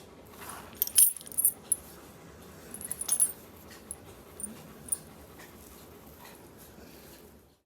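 German Shepherd moving about, with a few short metallic jingles of its collar tags about one and three seconds in over a faint background.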